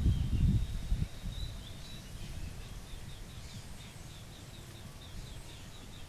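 Thin high bird whistles: one held whistle with small breaks, then a quick run of short falling notes, over a low rumbling noise that fades about a second in.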